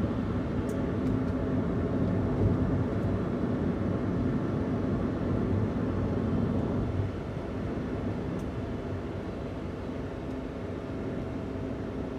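Daihatsu Hijet kei van's stock 660 cc three-cylinder engine running steadily while driving, with road noise, becoming quieter about seven seconds in.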